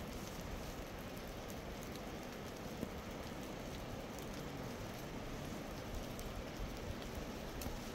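Steady rain falling, with scattered sharp ticks of individual drops landing.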